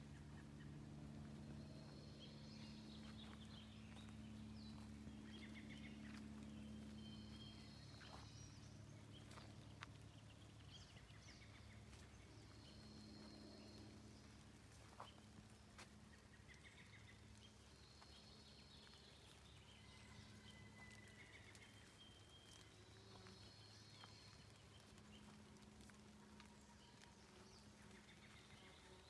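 Faint birdsong in quiet woodland. One bird repeats the same short, high song about every five seconds, with other short chirps in between, over a low steady hum.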